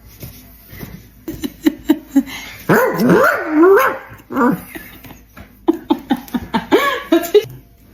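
Dog-like vocalising: a few short yips, then a long wavering whine, then a quick run of short yaps and barks near the end.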